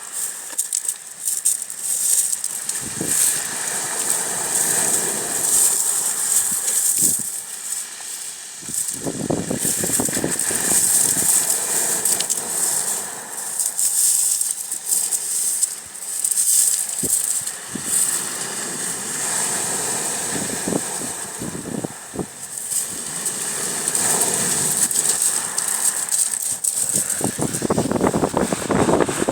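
Waves washing against a bay shoreline, swelling into stronger surges about nine seconds in and again near the end, over a steady high hiss of moving water.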